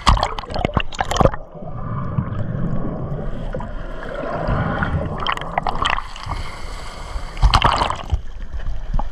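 Seawater splashing and sloshing around a camera at the surface, with muffled underwater gurgling and bubbling while it is submerged. Sharp splashes come in the first second or so and again loudly near the end.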